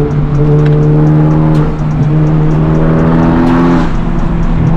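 Turbocharged four-cylinder of a Honda Civic Type R with a catless downpipe and resonator delete, droning steadily at an even engine speed while driving, with small shifts in pitch about two seconds in and again near the end.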